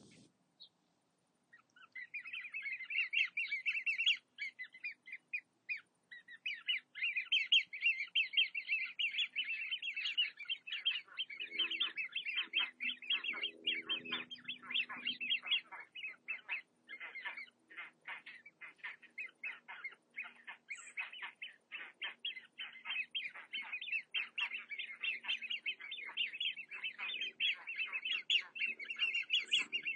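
Small birds chirping, a dense chatter of quick high calls that starts about two seconds in and keeps going.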